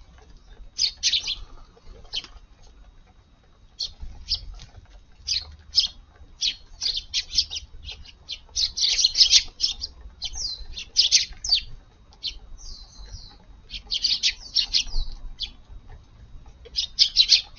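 Eurasian tree sparrows chirping, many short chirps coming in quick clusters, busier from about four seconds in.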